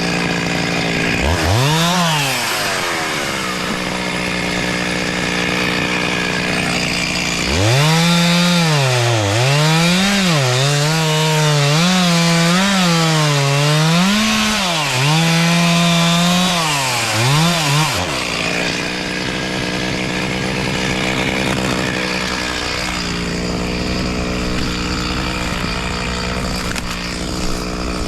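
Two-stroke chainsaw running at high revs while cutting wood. Its engine pitch repeatedly sags and recovers as the chain bites into the cut, briefly about two seconds in and then steadily for about ten seconds through the middle. It runs at a steady high pitch before and after.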